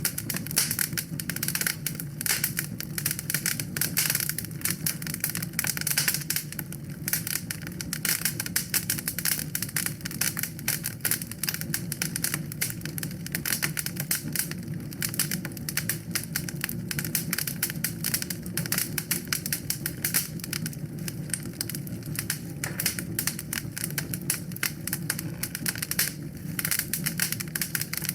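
Wood fire crackling in a fireplace: a dense, irregular stream of small crackles and pops over a steady low rumble.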